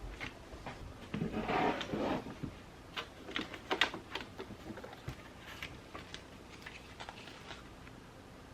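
Journaling supplies being handled on a desk: a paper rustle about a second in, then a quick run of light clicks and taps. A steady soft hiss of rain runs underneath.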